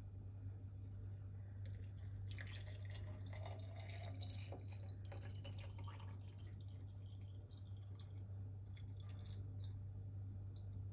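Water running and splashing, starting about two seconds in and easing off around six seconds, followed by a few light clicks and taps. A steady low hum runs underneath.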